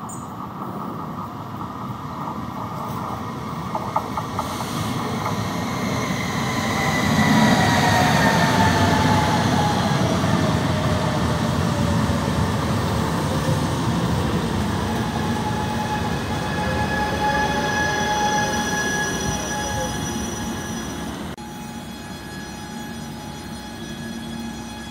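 Trenitalia ETR 425 "Jazz" electric multiple unit pulling into a station: a rumble of wheels on rails builds as it comes in, with whining tones that fall steadily in pitch as it slows. Near the end the sound drops abruptly to a quieter, steady hum.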